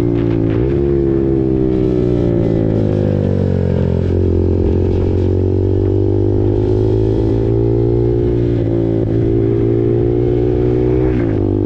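KTM RC 390's single-cylinder engine running through an SC Project aftermarket exhaust under way. The engine note dips briefly about half a second in, falls steadily for a few seconds, then slowly climbs, and drops sharply again near the end.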